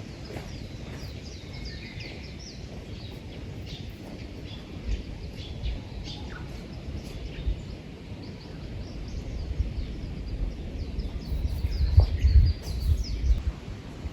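Small songbirds chirping and singing in quick, repeated high notes, over a low rumble that swells about twelve seconds in.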